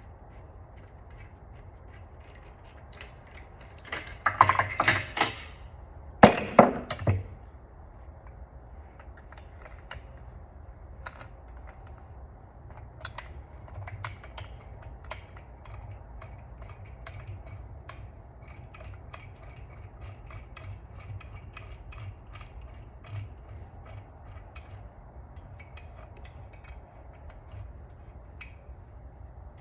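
Hand-tool work on a bare engine block: two loud rattling bursts of metal noise about four and six seconds in, then scattered light clicks and clinks of bolts and tools being handled.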